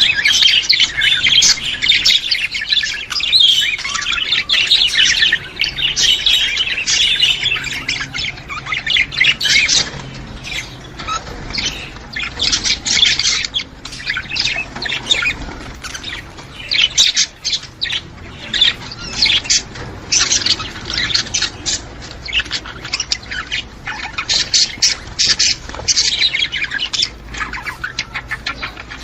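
A flock of budgerigars chattering and squawking, many birds at once. The warbling is dense and unbroken for the first third, then comes in broken bursts.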